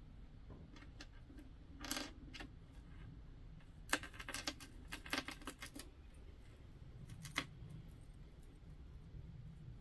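Small metal jewelry pieces clicking and clinking as they are picked through by hand: a few clicks about two seconds in, a quick run of clinks around four to six seconds, and one last click a little after seven seconds.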